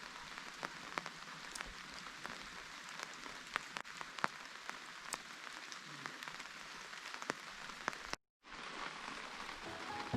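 Steady rain falling, with many single drops tapping sharply through it. The sound drops out to silence for a moment about eight seconds in.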